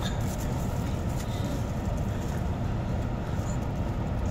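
Steady low rumble of a car's engine running, heard inside the cabin.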